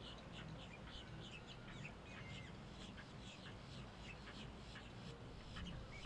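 Birds chirping, many short high calls a second, over a faint steady low rumble.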